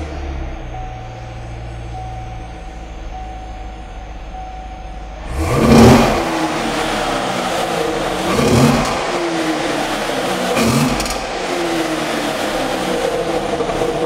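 Chevrolet Corvette Stingray's 6.2-litre LT1 V8, warmed up, idling steadily and then revved four times through its centre-exit exhaust, starting about five seconds in. The first rev is the loudest, and each one falls back toward idle.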